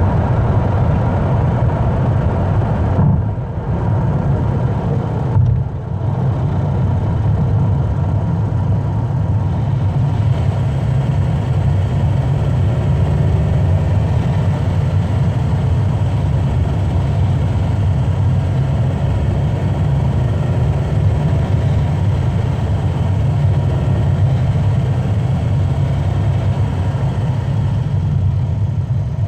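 Car driving at speed on a motorway: a steady engine and tyre rumble, dipping briefly twice a few seconds in.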